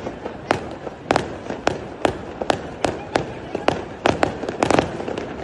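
Fireworks going off: a run of sharp cracks and bangs, about two or three a second, bunching into a quick cluster near the end.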